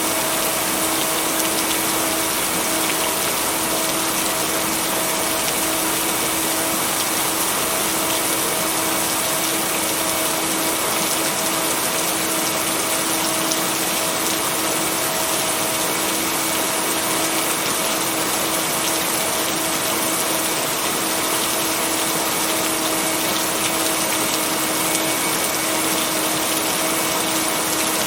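Steady, even rain noise with a low hum tone and its octave held underneath: rain blended with a binaural-beat tone. No thunder.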